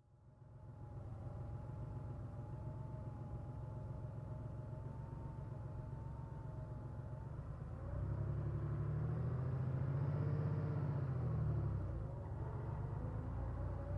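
1990 Porsche 911's air-cooled flat-six running steadily with a faint whine. About eight seconds in it gets louder and its pitch rises and falls, then it settles back after about four seconds.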